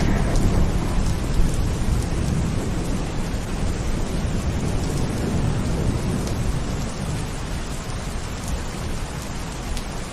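Steady rain with a deep low rumble underneath, heavier in the first half and easing toward the end.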